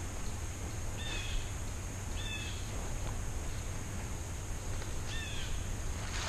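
A bird calling three times in the woods, each a short, high call that drops in pitch at its end.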